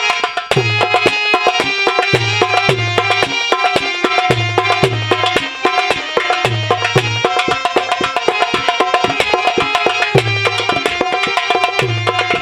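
Instrumental interlude of Indian folk music: a hand drum plays a fast, even rhythm with deep bass strokes in short groups, under a sustained melody line.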